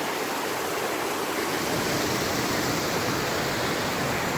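Steady rushing of fast-flowing water, with no breaks or separate splashes.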